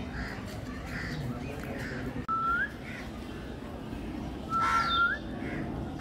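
Birds calling: scattered short chirps, two thin whistles that hold a note and then sweep upward, and a louder, harsher call about four and a half seconds in.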